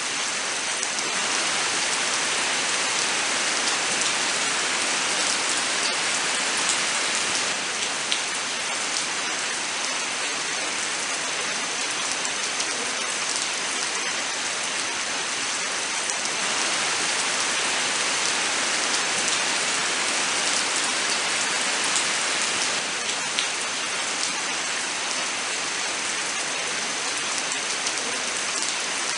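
Steady rain falling in a forest: a dense, even hiss of rain with many individual drops ticking on surfaces, swelling and easing a little in strength.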